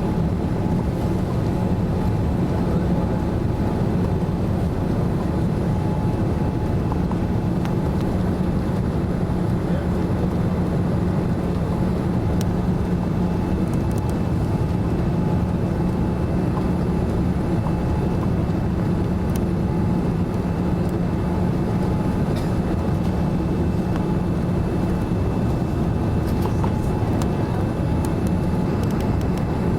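Steady cabin noise inside a Boeing 787-9 airliner on its approach to landing: the engines and the air rushing past the fuselage make an even drone with a low hum and a fainter higher tone.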